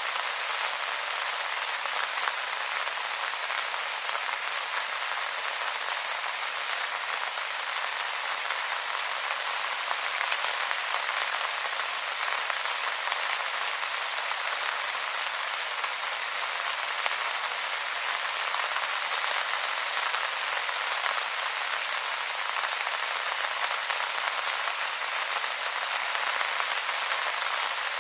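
Steady rain falling on wet leaves: an even hiss of many small drops pattering without a break.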